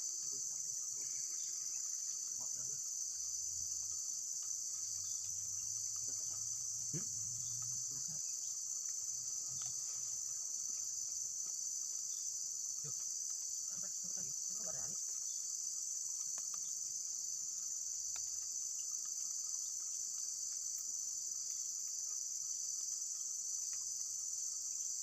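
Dense chorus of insects, a steady high-pitched shrill drone that does not let up. A few faint knocks and rustles come through underneath it.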